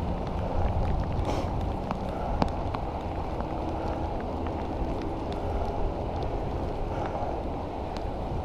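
Wind rushing over the microphone and tyre hiss from a bicycle ridden in the rain, with scattered faint ticks.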